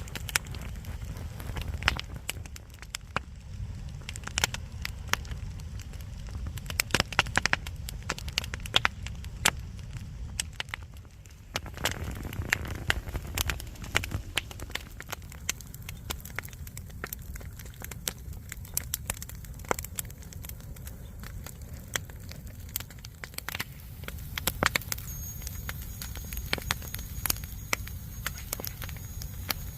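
Wood fire crackling, with many sharp irregular pops over a low steady rumble.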